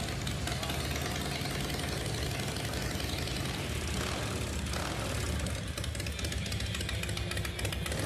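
Custom chopper's V-twin engine, freshly started, idling steadily through its custom exhaust pipes with a low rumble.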